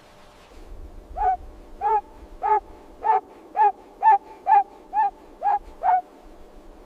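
An animal calling about ten times in a steady series, roughly two short calls a second, each call rising and then falling in pitch.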